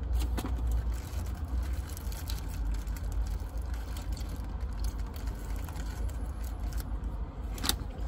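Chewing a bite of burger, with the foil wrapper crinkling now and then and a sharper crackle near the end, over a steady low rumble in the car's cabin.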